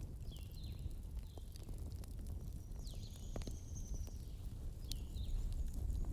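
Burning firewood crackling, with scattered sharp pops over a low steady rumble. Short high chirps repeat through it.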